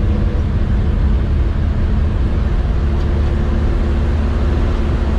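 Vehicle engine running steadily, a loud low drone with a slight shift in its tone about halfway through.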